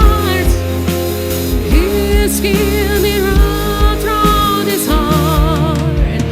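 Live band music in a slow pop ballad: a wavering lead melody with vibrato over sustained bass notes and a steady low beat about twice a second.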